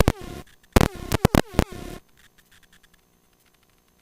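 Aviation radio transmission breaking in over the helicopter intercom: about two seconds of harsh, garbled static and squelch in several sharp bursts, with a falling tone at the start of the bursts.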